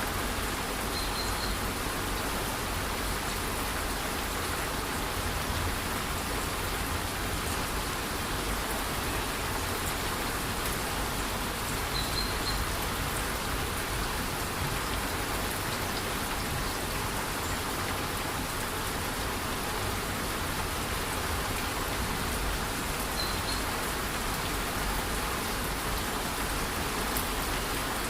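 A rainforest waterfall rushing steadily under light rain: an even, unbroken hiss of falling water. A brief high chirp sounds three times, about eleven seconds apart.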